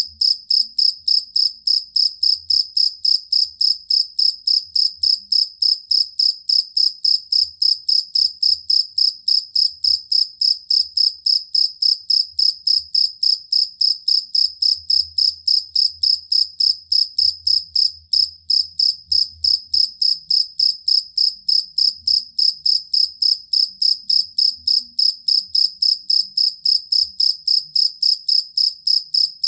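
A field cricket (jangkrik kalung) calling, a steady high chirp repeated about three to four times a second, with one brief break about two-thirds of the way through.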